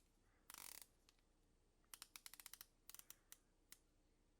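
Spinnaker Piccard dive watch's rotating bezel being turned: a quick run of faint ratchet clicks about two seconds in, then a few more single clicks, after a brief rustle of handling.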